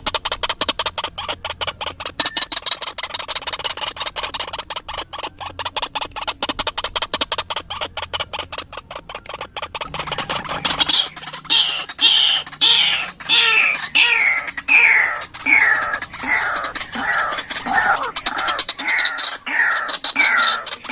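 White-breasted waterhen calling: a fast run of rapid clicking notes, then from about halfway a string of repeated falling notes, about two a second. This is the lure call used to draw waterhens in.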